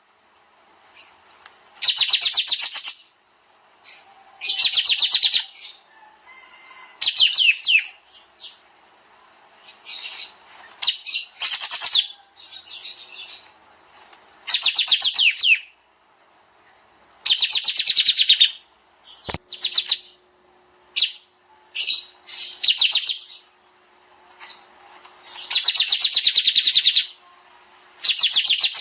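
Kapas tembak songbird singing its dense, rapid-fire 'tembak' phrases: bursts of fast high trilled notes, each about a second long, repeated every two to three seconds. A single sharp click about two-thirds of the way through.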